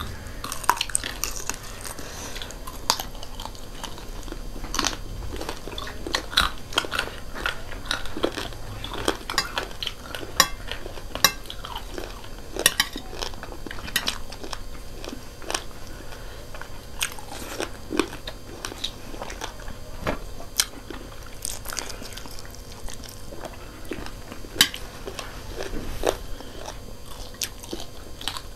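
Two people biting and chewing fried chicken feet, with irregular crunches and crackles.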